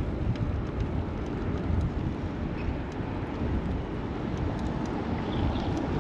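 Steady low rumble of city traffic and wind on the microphone from a moving bicycle, with a few faint ticks.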